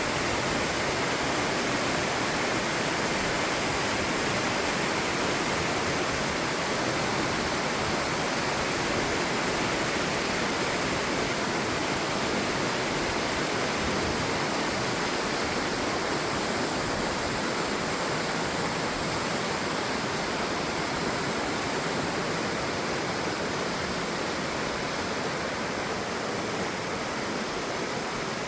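River rapids and a waterfall rushing steadily over boulders, an even, unbroken roar of water, slightly quieter near the end.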